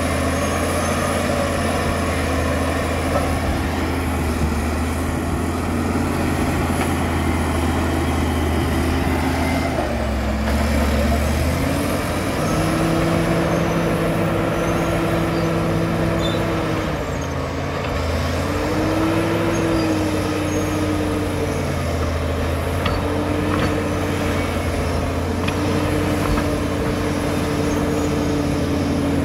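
Caterpillar D7 bulldozer's diesel engine running steadily under load, its pitch dropping and picking back up a few times as the machine works.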